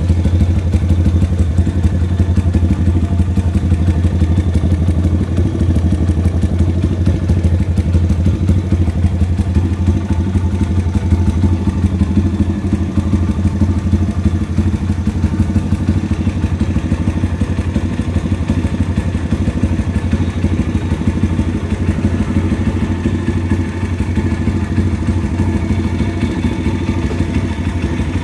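Pit bike's YX 140 single-cylinder four-stroke engine running steadily at a constant speed, with no revving.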